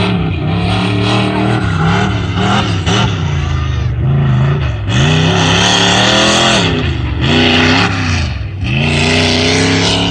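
Truck engine revving hard, its pitch surging up and dropping back several times, under a loud hiss.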